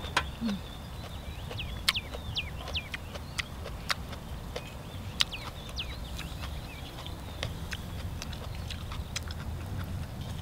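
Eating sounds: irregular sharp wet clicks and lip smacks from chewing grilled octopus, with high falling chirps in the background.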